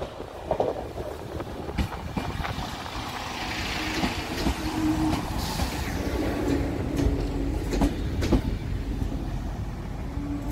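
Network Rail Windhoff multi-purpose vehicle (DR98973), working as a rail head treatment train, running slowly into the platform. A low rumble with a steady hum and occasional clicks of wheels over rail joints.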